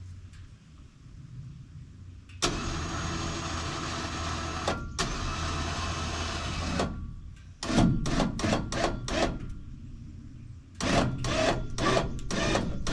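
Winch motor running steadily for about four seconds while pulling on a heavy log, then stopping abruptly. After that it is run in two series of short bursts, about four a second.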